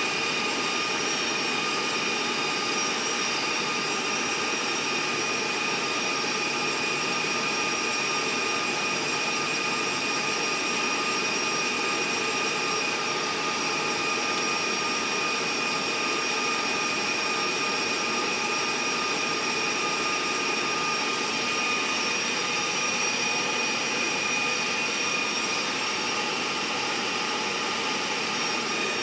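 Steady running noise of an Amtrak passenger train heard from on board: an even whooshing drone with a few constant high-pitched tones over it.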